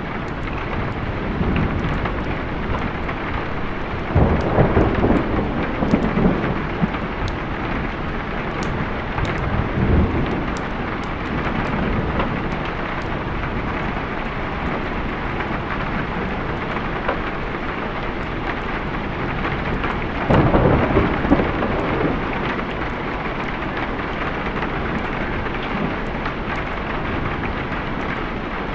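Steady rain with rolling thunder: a louder rumble swells about four seconds in, a short one near ten seconds, and another about twenty seconds in, over the constant patter of the rain.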